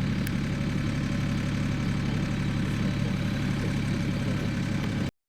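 Valach R5-420 five-cylinder radial engine of a large model airplane running steadily at low speed. The sound cuts off suddenly near the end.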